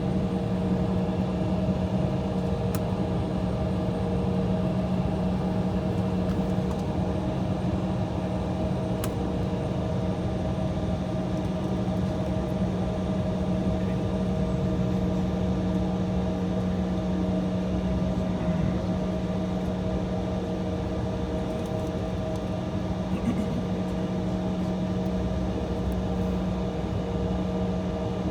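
Steady drone inside the cabin of an Embraer E175 jet idling on the taxiway: an even hum with a low steady tone and fainter higher tones, unchanging throughout.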